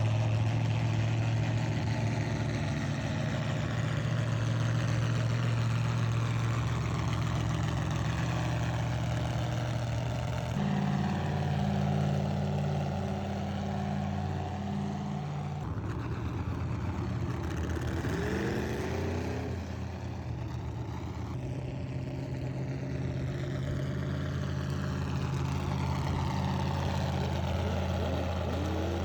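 Motor vehicle engines running at a steady idle, the low hum changing pitch abruptly a few times.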